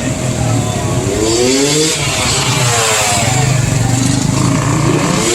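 Dirt bike engines revving, the pitch climbing about a second in, falling back, then climbing again near the end.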